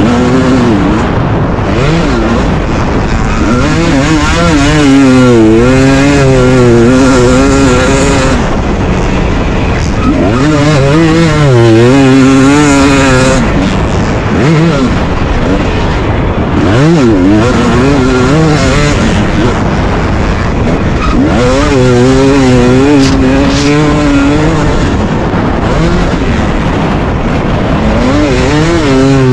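KTM 250 two-stroke dirt bike engine, heard close up from the bike. It revs hard and falls back over and over, its pitch rising and dropping many times as the throttle is opened and shut.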